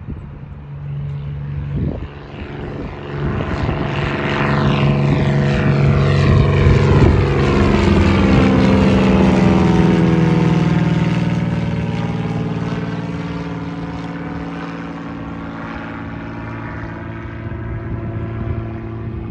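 Cessna 205's single propeller and six-cylinder piston engine at takeoff power as the plane passes by. It grows louder to a peak partway through, then fades away.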